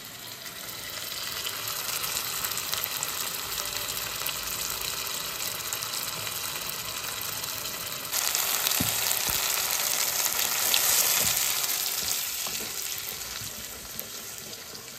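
Sliced tomatoes and onions sizzling in hot oil in a pot, a steady frying hiss that turns louder about eight seconds in and eases off near the end, with a few faint knocks.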